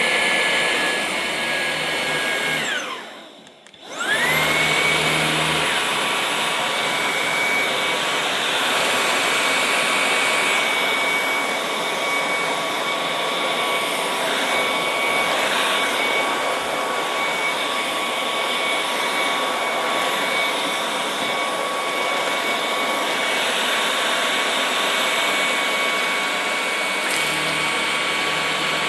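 Ryobi 18V cordless vacuum running with a steady high whine. About three seconds in it switches off and winds down, then starts again within a second, its whine rising and settling, and it runs on steadily.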